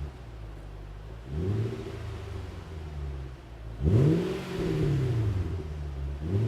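Nissan Fuga 450GT's 4.5-litre V8 idling through a one-off four-outlet flat-silencer exhaust, blipped twice: a short rev about a second in, then a bigger, louder rev about four seconds in that falls back to idle. The note is a deep but fairly quiet rumble.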